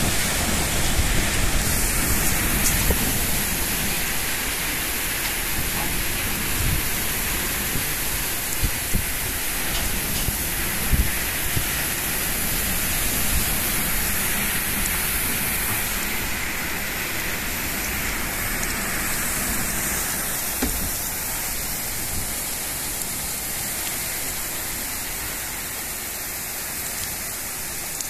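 Heavy rain pouring down in a dense, steady hiss, growing gradually quieter toward the end as the downpour eases.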